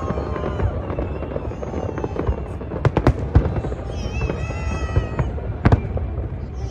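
Fireworks going off: a few sharp bangs about three seconds in and another near six seconds, over a steady low rumble.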